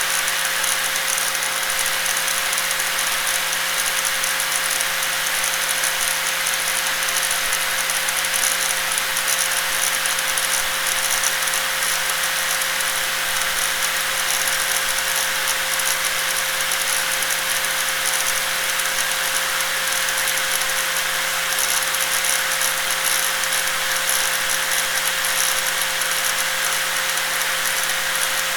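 Angle grinder running continuously at a steady speed: a constant whine over a hissing rush, with no change in pitch or load.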